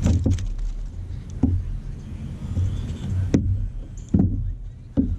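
Wind buffeting the microphone in uneven gusts of low rumble, with several sharp knocks aboard a kayak.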